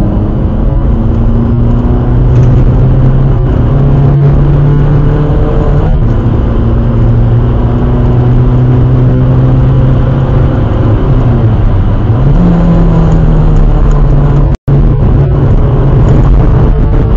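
Skoda Fabia vRS's 1.9 TDI diesel engine heard from inside the cabin under hard track driving, over steady road and wind noise. The engine note climbs slowly under load, then jumps up in pitch about twelve seconds in, as on a downchange. The sound cuts out for a split second near the end.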